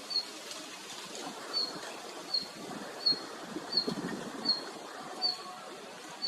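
Red-flanked bluetail giving a short, high call note over and over, about one every three-quarters of a second, in a steady series of about eight notes.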